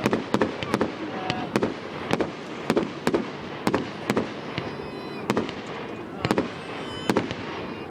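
Fireworks display: an irregular string of sharp bangs and cracks going off in quick succession, often two or three a second.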